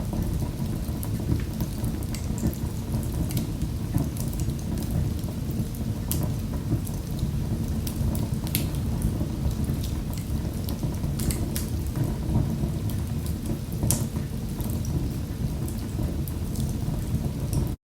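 Fire in a fireplace crackling: a steady low rumble of flames with scattered sharp pops and snaps. The sound cuts out abruptly right at the end.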